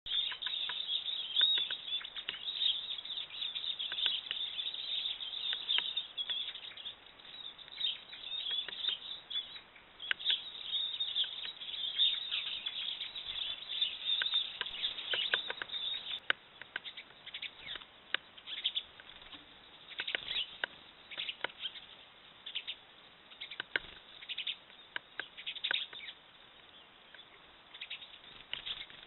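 Great spotted woodpecker pecking at a fat block: irregular sharp taps, mixed with high bird chirps. The chirping is busiest in the first half and thins out later.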